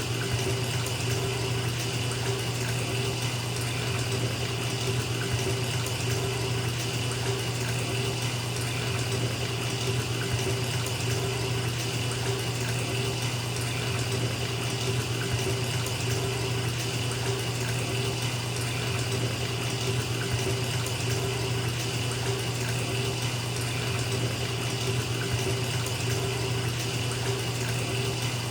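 Bathtub tap running steadily into a filling tub, an even rush of water with a constant low hum beneath it.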